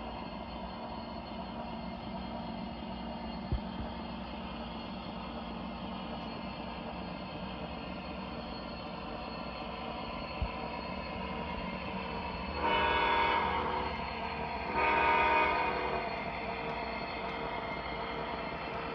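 MTH model diesel locomotive's onboard sound system running: a steady diesel engine drone with the train rolling on the track, and two sharp clicks. About 13 seconds in, two horn blasts, each a little over a second long, sound one right after the other.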